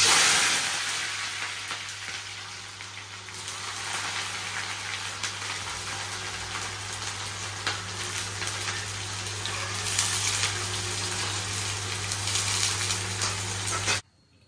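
Marinated chicken pieces frying in hot oil: a loud sizzle bursts up as the pieces go in, eases, then settles into a steady crackling sizzle that cuts off abruptly near the end. A steady low hum runs underneath.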